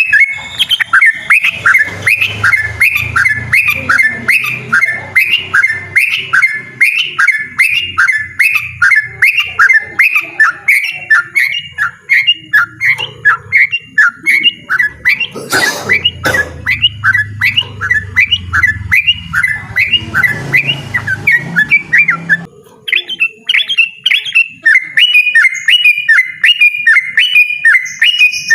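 Yellow-vented bulbul singing loudly and insistently in a rapid run of repeated notes, about three a second, that breaks off briefly about three-quarters of the way through and then resumes. A single knock sounds near the middle.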